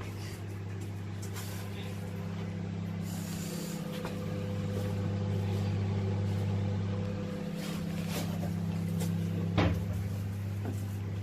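Microwave oven running with a steady low electrical hum, slightly louder for a few seconds mid-way, and a single sharp knock near the end.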